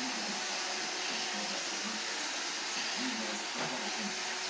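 Roomba robot vacuum running with a steady whirring hiss.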